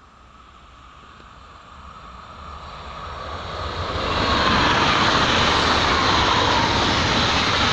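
TER regional multiple-unit train approaching and passing at speed on the track alongside: a rush of wheels on rail that grows steadily louder over the first four seconds, then stays loud as the carriages go by.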